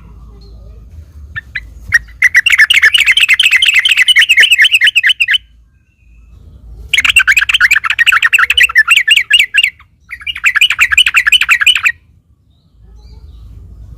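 Yellow-vented bulbul (trucukan) singing in three bursts of rapid, run-together chattering notes, with short pauses between them: the long continuous 'ropel' song played as a lure to set other trucuk birds calling back.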